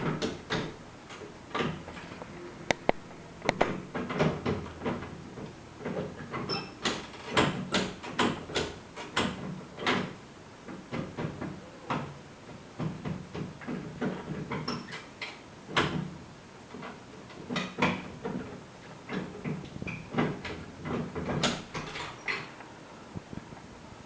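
A door and its lever handle rattling and clicking in many irregular knocks as a cat paws and hangs on the handle, which has been turned round to open upward.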